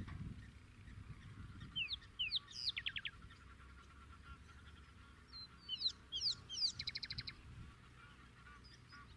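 A bird singing two phrases, each a few quick sweeping whistled notes ending in a rapid trill, the second starting about three and a half seconds after the first.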